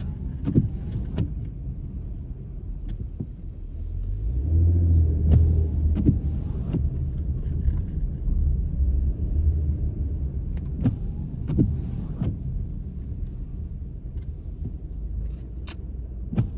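Car interior while driving: a steady low engine and road rumble that swells for a few seconds about four seconds in, its pitch rising as the car speeds up, with scattered short clicks and knocks.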